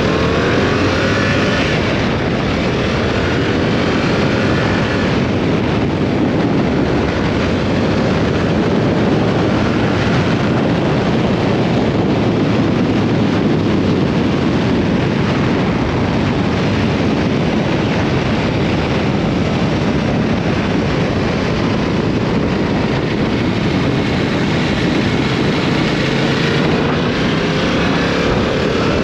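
Yamaha R7's parallel-twin engine pulling under way, its pitch climbing at the start and again near the end, under a steady rush of wind noise on the microphone.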